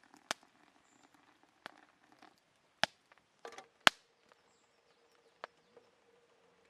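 A handful of scattered sharp snaps and clicks, the loudest about four seconds in, with a short scuffle just before it, over a faint steady hum.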